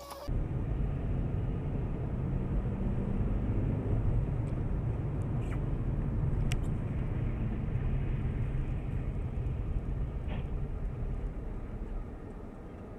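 Car driving, its steady low road and engine rumble picked up by a dashcam microphone, with a few faint clicks. The level drops slightly near the end.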